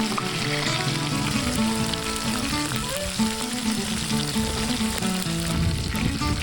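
Onions sizzling as they fry over a wood fire, a steady crackling hiss, with a music track playing under it.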